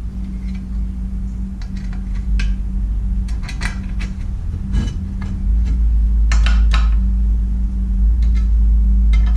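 Metal parts of a jointer fence clinking and knocking as they are handled and the fence bracket is slid and tightened, a dozen or so short sharp clinks at uneven intervals. Underneath, a steady low hum that gets louder about halfway through.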